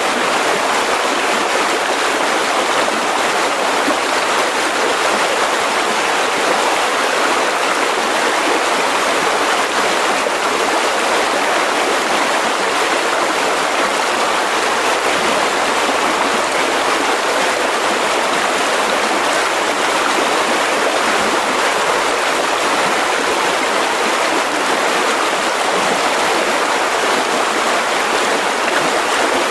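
Mountain river rushing over rocks: a steady, loud rush of water with no change.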